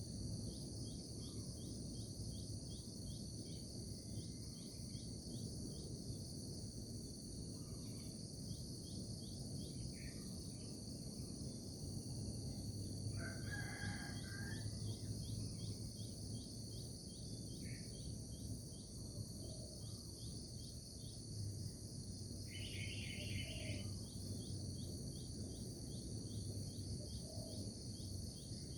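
Outdoor nature ambience: a steady high chorus of insects with fast, even chirping, over a low rumble. A few short bird calls come through, the longest about halfway through and another a little later.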